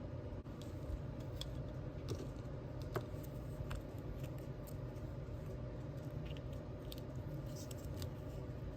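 Scattered small clicks and taps from hands handling small craft tools and materials, over a steady low hum.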